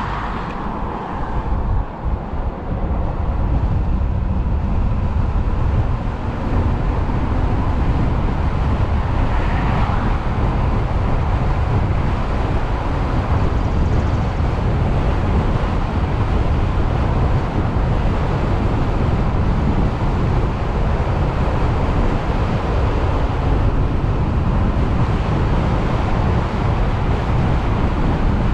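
Wind rushing over the microphone at speed, with road noise, heaviest in the low end; it briefly dips about two seconds in, then holds steady.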